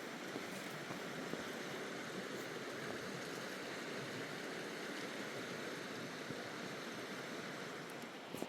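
Fast mountain river rushing steadily, an even roar of running water.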